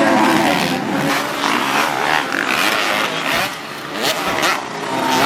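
Several motocross bikes racing, their engines revving up and down as they rise and fall in pitch, with a brief dip about four seconds in.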